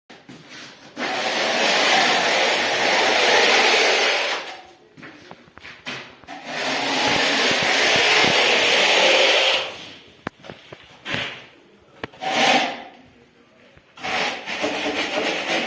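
A hand tool scraping and rubbing over a rough surface in two long strokes of several seconds each, then a few short scrapes, then a quicker, choppier stretch of scraping near the end.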